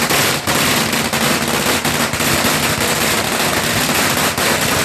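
Firecrackers going off in a rapid, continuous crackle, many loud bangs overlapping with no pause.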